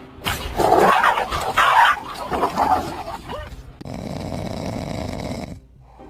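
A dog barking and growling in loud, irregular bursts for about three seconds, then a steady noise for a couple of seconds that cuts off sharply.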